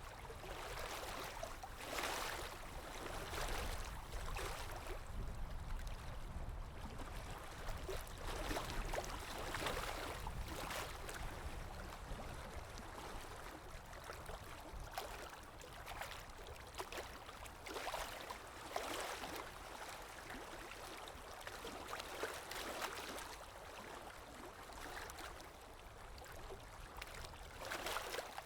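Calm sea waves lapping and washing ashore, small swells breaking every second or two over a constant low wash.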